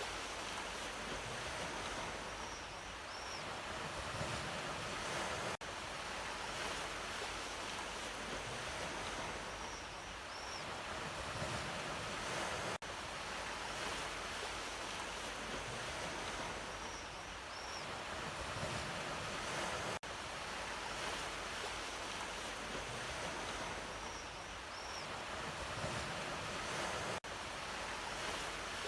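Ocean waves washing in and drawing back in a steady rushing surf. The recording is a loop of about seven seconds that restarts with a brief dip in level, each pass carrying the same faint high double chirp.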